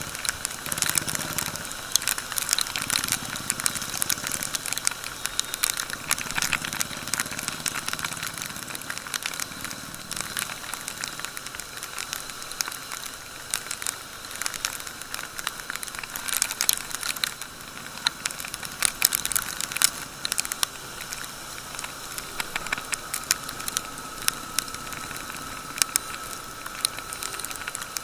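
Rain crackling and spattering on the motorcycle-mounted camera over the hiss of tyres on a wet road, with the motorcycle's engine running faintly underneath, a little louder in the first ten seconds.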